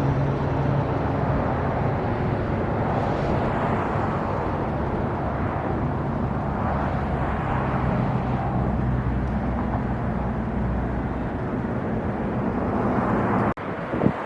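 Steady outdoor rumble of road traffic, with vehicles swelling and fading as they pass; a brief break and a click come about a second before the end.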